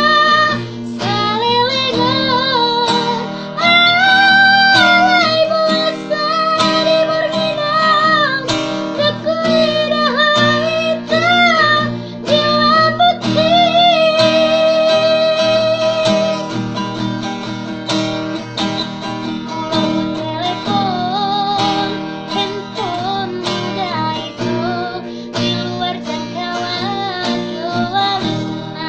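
A woman singing a melody with vibrato over acoustic guitar accompaniment; after about the middle the voice drops back and the strummed guitar carries on.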